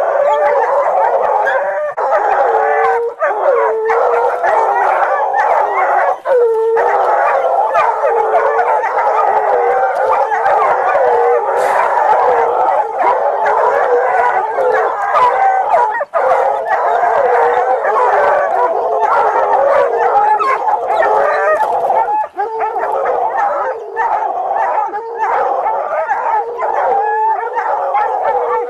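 A pack of dogs howling, yelping and barking all at once, many voices overlapping with no pause.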